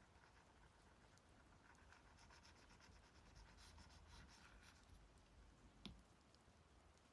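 Faint stylus strokes and taps on an iPad's glass screen: a quick run of light ticks in the middle and one sharper tap near the end.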